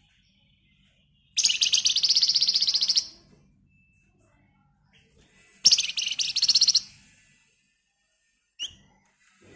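Flamboyan songbird giving two loud, rapid, tightly packed buzzing trills of a second or so each, the 'ngebren rapat' burst, then a short chirp near the end.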